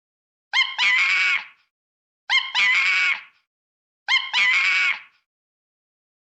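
A monkey's call repeated three times, identical each time and about 1.8 seconds apart: a short pitched note followed by a longer, harsher call, with silence between.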